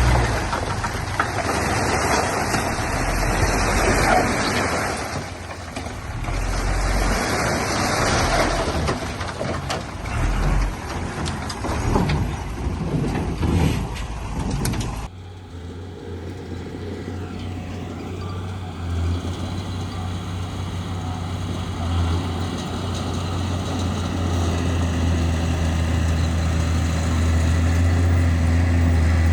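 Heavy diesel earthmoving machinery running under load, a loud, dense engine noise. About halfway through, it cuts abruptly to a steadier, deep engine drone that grows louder toward the end.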